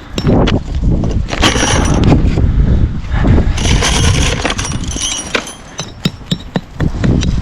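Hammer blows driving turf nails through artificial turf into a mortar bed: sharp metal strikes scattered through, clearer near the end, under a loud low rumbling noise with stretches of hiss.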